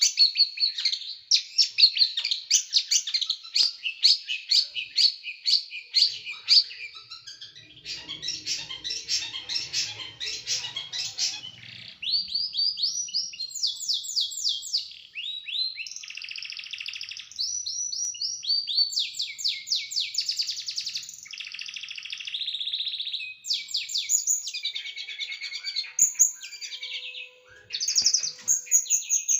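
A small songbird singing fast trills of sharp, rapidly repeated notes in tight phrases of a second or two, with brief gaps between them: the close, harsh 'tembakan' (shooting) song style prized in masteran recordings.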